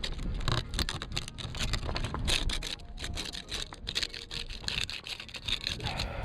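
Ice being chipped and scraped off an iced-over car: a quick, irregular run of sharp cracks, knocks and scrapes as the ice breaks away.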